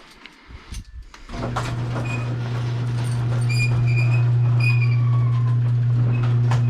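A few light clicks, then about a second and a half in a machine starts up and runs with a steady low hum that swells slightly over the next few seconds, with thin high whistling tones coming and going over it.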